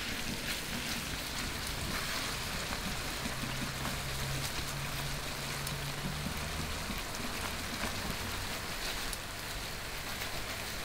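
Tomato, onion and carrot sofrito sizzling as it gently fries in a stainless steel pan, stirred with a spoon: a steady crackling hiss.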